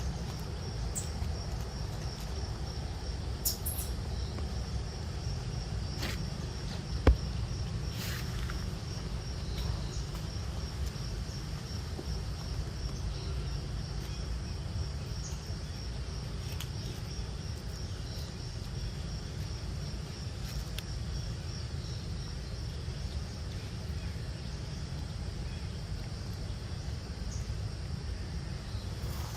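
Insects calling with a steady, rapidly pulsing high note over a constant low rumble, with scattered small clicks and one sharp knock about seven seconds in.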